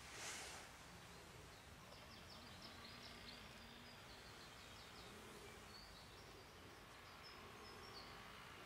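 Near silence with a faint small bird twittering in a rapid trill in the background, and a brief rustle of handling just after the start.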